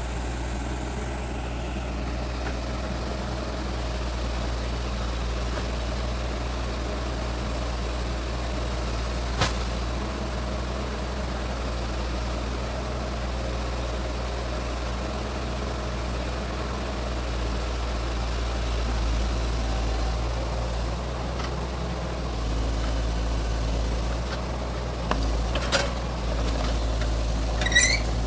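Excavator's diesel engine running steadily, with a sharp knock about a third of the way in and a few clanks and a short squeak near the end.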